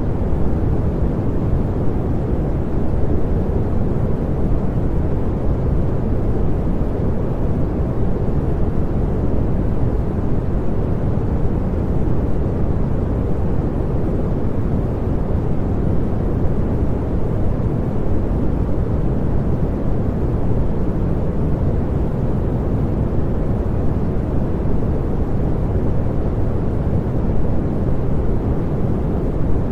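Continuous pink noise: a steady, even rushing hiss, heaviest in the low end and softer in the highs, with no change throughout.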